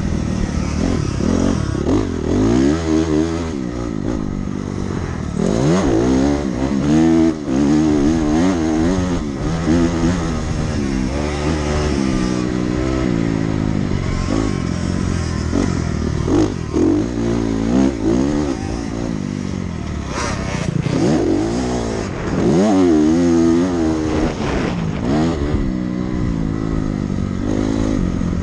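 Dirt bike engine revving hard on a motocross track, its pitch climbing and dropping again and again as the rider accelerates, shifts and backs off.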